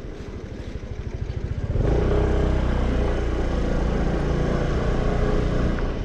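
Vespa scooter engine ticking over with even low pulses, then opening up about two seconds in and running steadily louder as it pulls away.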